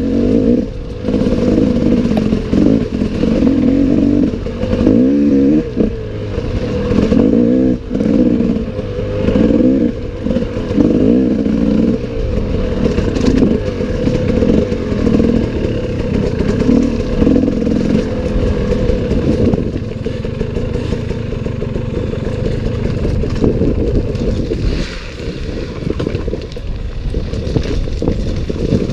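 Enduro motorcycle engine revving up and down in repeated surges, about one every second and a half, settling into a steadier run for the last several seconds.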